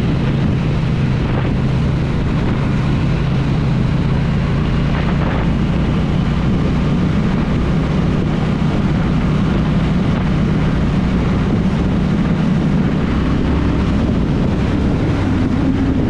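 Triumph Bonneville parallel-twin motorcycle engine running steadily while riding, with wind noise over it. The engine note shifts up a little near the end.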